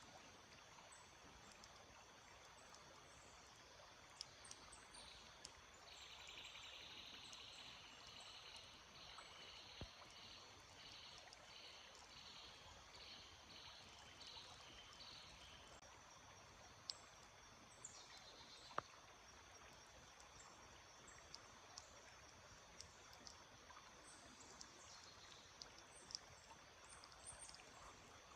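Faint steady trickle of a small stream. A songbird sings a run of about ten quick repeated high notes over several seconds, and short high chirps and a few sharp ticks come through later.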